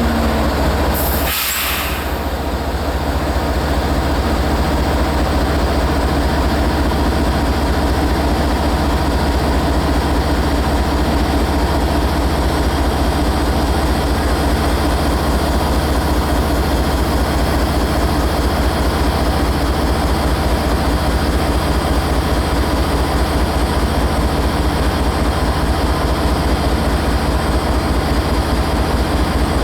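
Train running with a steady, loud rumble, interrupted by a brief break about a second and a half in.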